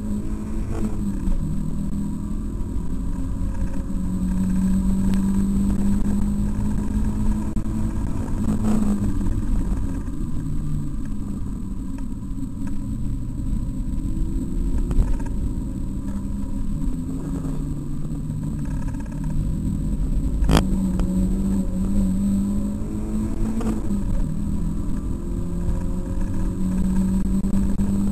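Mazda MX-5's four-cylinder engine heard from inside the cabin while driven on a circuit, its note climbing and dropping again and again through gear changes and braking, over steady road and tyre noise. A single sharp click about two-thirds of the way through.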